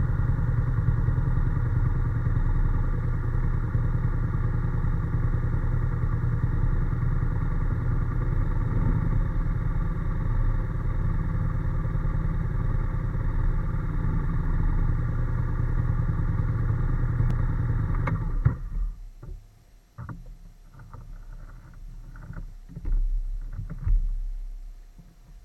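Honda NC750S parallel-twin motorcycle engine running steadily under way. About three quarters of the way through it stops suddenly, followed by a few scattered knocks and clatter.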